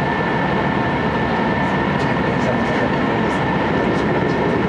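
Cabin running noise of an Aizu Railway AT700 diesel railcar under way: a steady, even rumble with a thin steady high tone over it and a few faint ticks.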